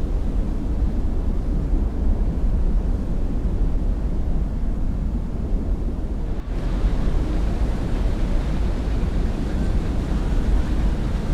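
Wind buffeting the microphone over a steady low rumble of boat engines and water, with a brief break about six and a half seconds in.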